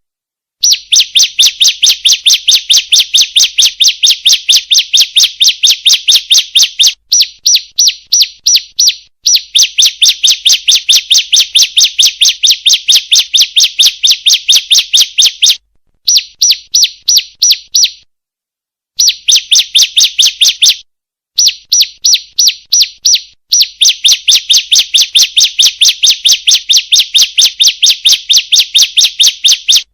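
Female prinia (ciblek) calling: a fast, even series of sharp, high chirps, about four a second, in long bouts broken by brief pauses. It is a lure call, used to get caged birds to answer and sing.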